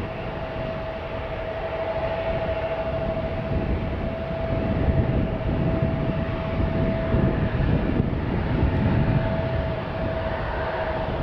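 Jet airliner engines rumbling steadily, building slightly after a few seconds, with a constant whine; gusty wind buffets the microphone.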